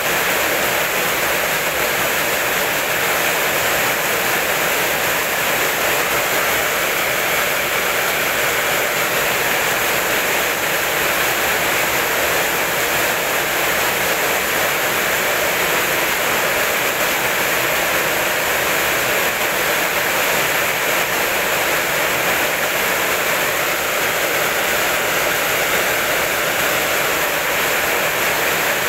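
Rain falling steadily, a dense, even hiss with no breaks or thunder claps.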